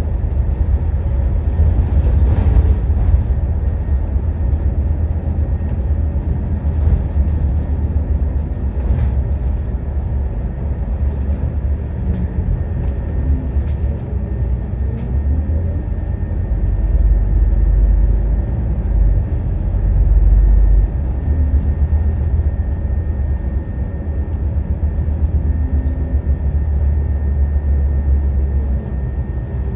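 Scania N230UD double-decker bus's diesel engine running as the bus drives, a deep rumble that swells a little over halfway in, with a thin steady whine above it.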